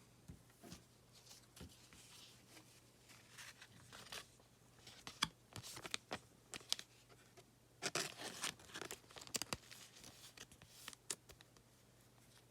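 Thin plastic card sleeves rustling and crinkling in short, scattered bursts as trading cards are slid into them by hand.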